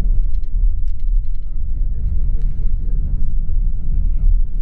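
Steady low rumble of a tour coach's engine and tyres on the road, heard from inside the bus, with a few faint light rattles in the first second and a half.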